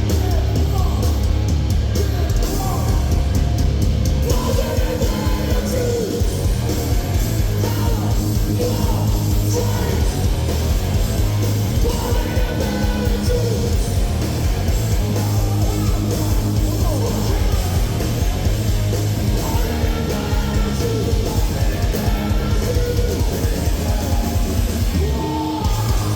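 Live heavy hardcore/metal band playing loud: distorted guitars, heavy bass and fast pounding drums, with a vocalist yelling and screaming over it. Near the end the playing drops out briefly before a low sustained chord rings on.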